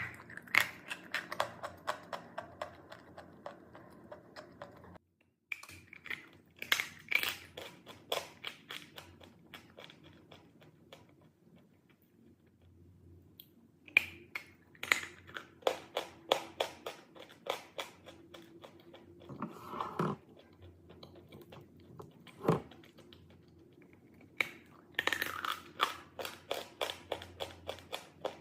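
Chalk being bitten and chewed close to the microphone: a few sharp cracking bites, then runs of rapid crisp crunches, in several spells with short pauses between them.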